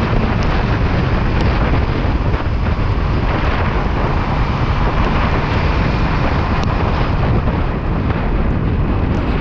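Loud, steady wind noise on the microphone of a Kawasaki Ninja 400 riding at speed in the rain, with the motorcycle's running and wet-road noise mixed in underneath.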